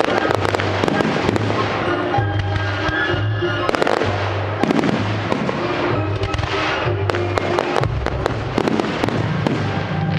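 Display fireworks going off in quick succession: many sharp bangs and crackling bursts, set against the display's accompanying music with a pulsing bass beat.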